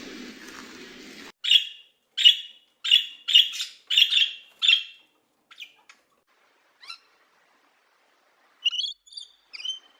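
A bird calling: a run of about seven short, sharp chirps, then a few faint ones, and a quick cluster of chirps near the end.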